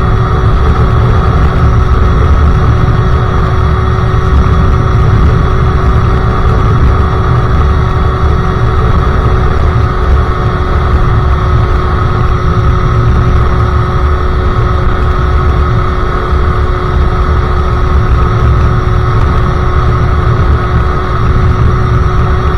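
Sherco SM-R 50cc two-stroke supermoto engine running at steady revs through a KRM aftermarket exhaust while riding, with a heavy low rumble of wind on the microphone.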